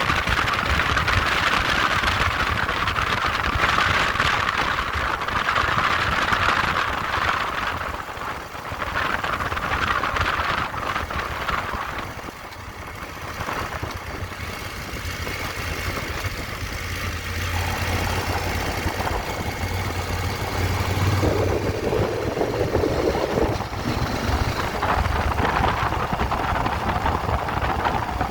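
Motorcycle engine running steadily, with a brief drop in level about halfway through.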